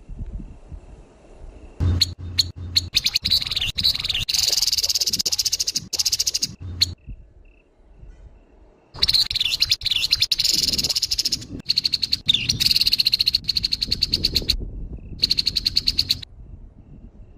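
Grey-headed babbler giving harsh, rapid rattling calls in two long bouts, about five and seven seconds long, with a short pause between them.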